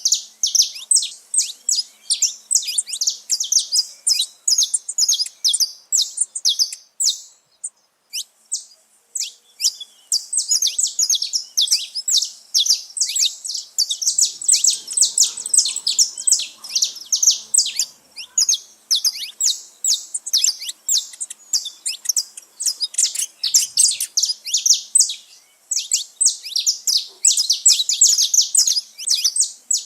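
Flock of saffron finches chirping and singing together, a dense, overlapping run of short high chirps that thins briefly about seven seconds in.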